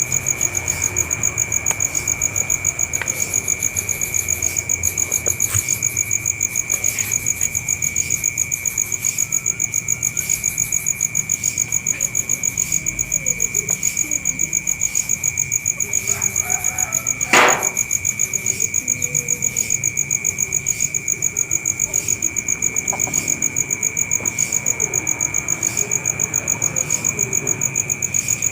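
An insect, cricket-like, chirping in a steady, evenly pulsed high trill. There is one sharp click about two-thirds of the way through.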